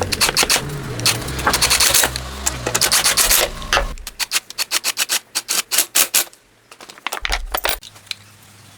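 Rapid, rhythmic scraping strokes, about five a second, as in hand sanding or filing a part. A low hum runs under the first half. The strokes stop briefly about six and a half seconds in, return for about a second, then die away.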